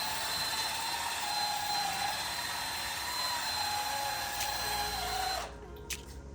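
Power drill spinning a polishing pad against a headlight lens, its motor whine wavering slightly in pitch as the pressure changes, then stopping abruptly about five seconds in. A couple of light clicks follow.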